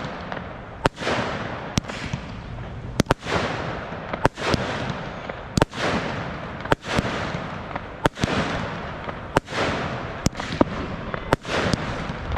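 Fireworks going off in a steady series of sharp bangs, roughly one a second and now and then two close together, each followed by a crackling hiss that fades before the next.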